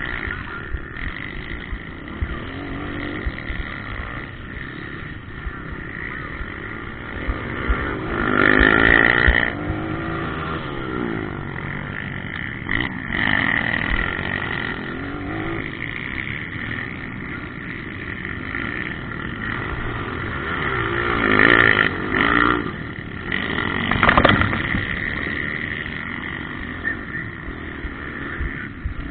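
Motocross bikes running on a dirt track, engines revving up and down through the gears as they go by. The bikes pass loudest about eight seconds in and again twice in the last third.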